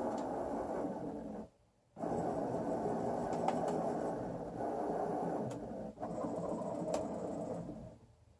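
Motors of the Excalibur Mirage chess computer's robotic arm running as it drives its electromagnetic head across the board, with a few light clicks. The motor noise stops for about half a second a second and a half in, then starts again and stops near the end.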